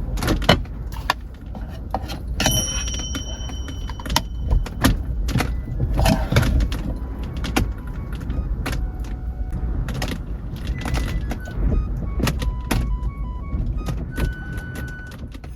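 Repeated sharp clicks and clatter of objects being handled, over a steady low rumble. Background music with short plinking notes comes in about halfway through.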